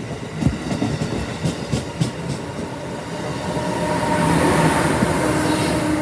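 A train running past on the tracks: wheels clicking over rail joints, then a louder rush with a steady hum that builds, peaks and eases off.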